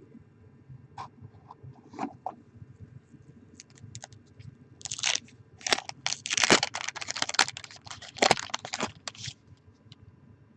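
Trading cards being handled and shuffled by hand: a few light clicks, then about four seconds of dense crinkly scraping and rustling from about halfway in.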